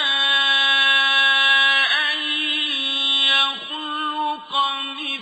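A male Qur'an reciter chanting in melodic tajweed style. He holds one long, steady vowel for about two seconds, then moves on through the next words with ornamented pitch turns.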